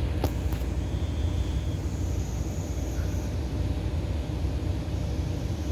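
Steady low rumble of outdoor background noise, with a few faint clicks just after the start.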